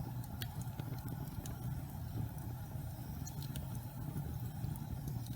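Wood fire burning in a fireplace: a steady low rumble of the flames with scattered sharp crackles and pops of the burning logs, a few of them loud.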